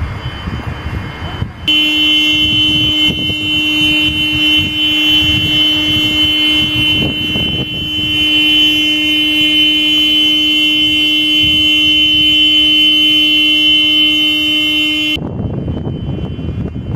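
A loud, steady horn-like tone holds one pitch for about thirteen seconds, starting about two seconds in and cutting off suddenly, over a rushing noise of storm wind and heavy rain.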